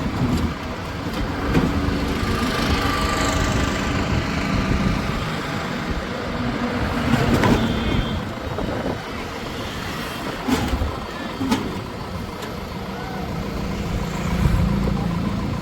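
JCB backhoe loader's diesel engine running, with a few sharp knocks in the middle.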